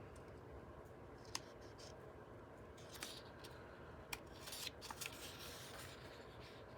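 Book pages being handled and turned: a few sharp paper clicks spread through, with a short cluster of paper rustling and snapping a little after the middle.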